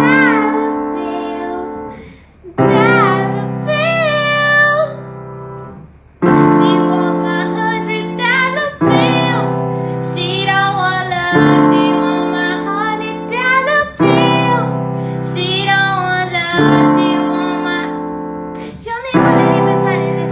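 A woman singing a slow melody over sustained keyboard chords, a new chord struck about every two and a half seconds.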